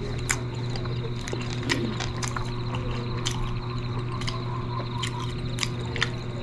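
Close-up eating sounds of siomai dumplings being chewed, with wet mouth smacks and clicks every half second or so over a steady low hum.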